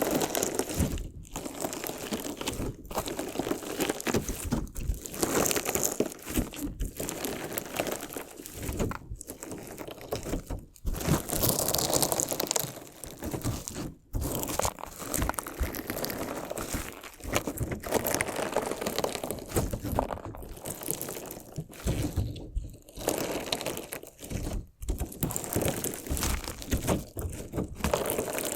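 Crunchy slime jelly with decorative stones being squished, cut and ground close to the microphone. It is a dense crackling crunch, broken by short pauses every two to three seconds.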